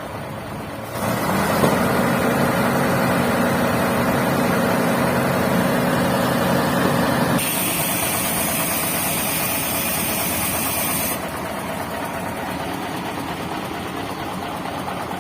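Heavy diesel truck engine running loudly for several seconds. It gives way to a steady high hiss of air lasting about four seconds, then drops back to a low engine rumble.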